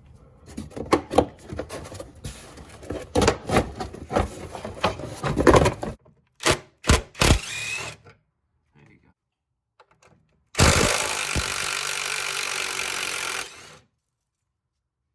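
Hand work on car body trim: a run of irregular clicks and knocks from fasteners and tools being worked, then three sharp clicks. Later comes a steady hiss lasting about three seconds that cuts off suddenly.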